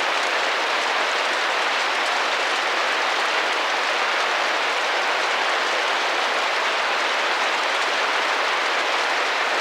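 Steady rain falling and drumming on a window pane, an even dense patter without pauses.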